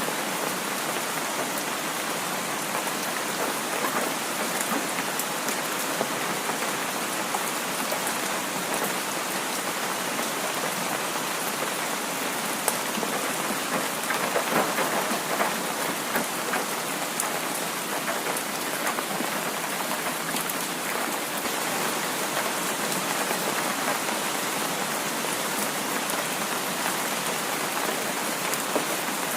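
Heavy rain falling steadily: a dense, even hiss of rain with scattered drop taps, swelling a little louder about halfway through.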